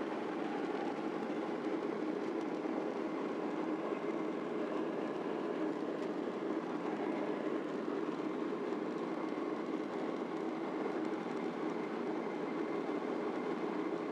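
Jet airliner's engines at takeoff power heard from inside the passenger cabin, a steady, even noise with a low rumble from the takeoff roll.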